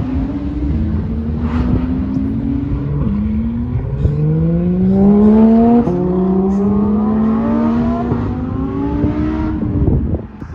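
Lamborghini engine accelerating hard, its pitch climbing and dropping at two upshifts, about three and about six seconds in. It is loudest just before the second shift, then holds a steady climb and fades near the end.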